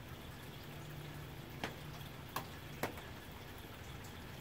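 Soft rain falling steadily on a tin roof, with three sharper drop ticks in quick succession about two seconds in.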